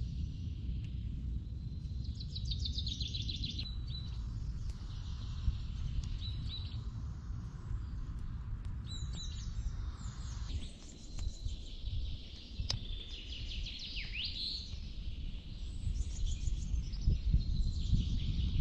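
Songbirds singing: repeated high trills and chirps, one after another, over a steady low rumble, with a few sharp clicks.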